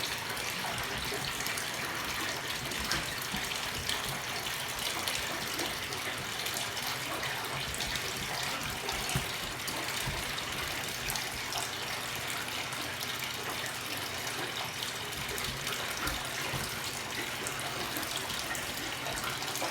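Water running steadily into a washing machine's tub as it fills.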